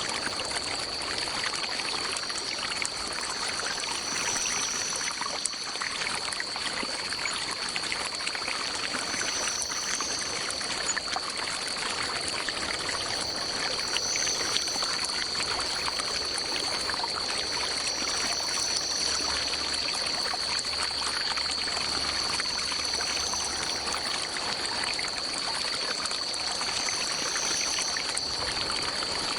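Stream water flowing and trickling steadily, with a steady high-pitched drone and a short, higher call of about a second that recurs every four to five seconds.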